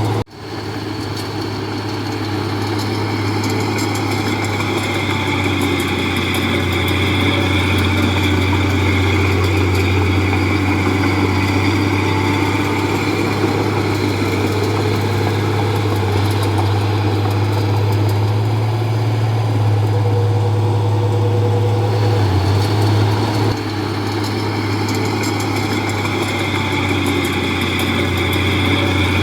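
Komatsu D31P bulldozer's diesel engine running steadily with a deep hum, dipping briefly just after the start.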